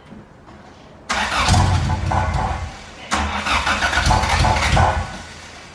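Honda CRX engine cranked by the starter in two attempts of about one and a half to two seconds each, without settling into an idle. It is struggling to start, and the choke is called for right after.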